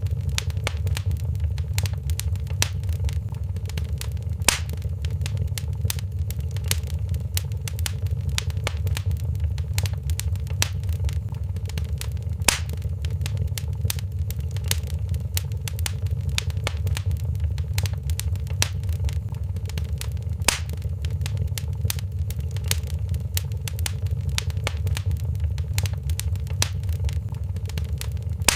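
Wood fire in a fireplace crackling steadily: a dense stream of small snaps and ticks over a low, even rumble. Sharper single pops stand out about every eight seconds.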